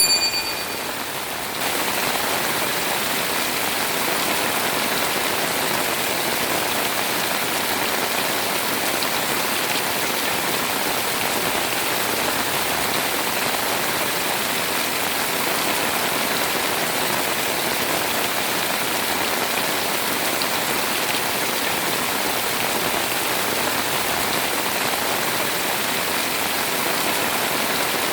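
Heavy rain pouring steadily, an even hiss of countless drops. A short ringing tone sounds at the very start, and the rain steps up in level about a second and a half in.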